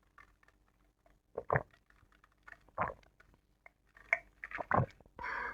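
Close-miked eating sounds of a person chewing bakso: soft wet mouth clicks throughout, with a few louder wet smacks at irregular intervals and a brief burst near the end.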